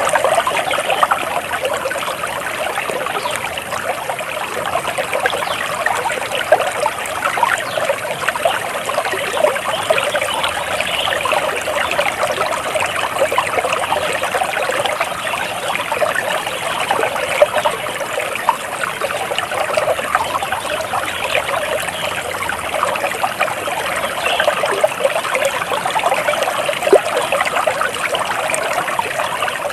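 Flowing water trickling and babbling steadily, like a small stream.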